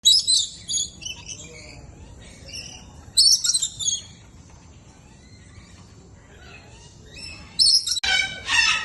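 Parrots calling in short bursts of shrill, high chirps, at the start, about three seconds in and again near the end, with quieter chirping between. A louder, lower call with a ringing, stacked tone comes in the last second.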